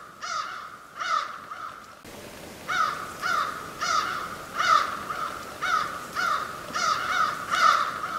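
A bird repeatedly giving short, harsh caw-like calls, one or two a second, each call dropping in pitch. A faint background hiss comes up about two seconds in.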